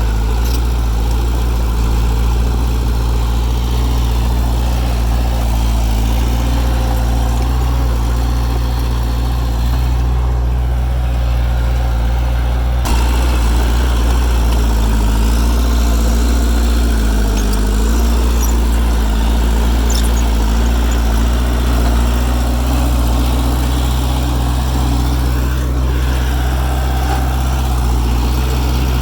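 Heavy diesel earthmoving machinery running steadily with a deep engine drone. The sound changes abruptly about 13 s in, and around the middle the engine note briefly dips and recovers, as under load.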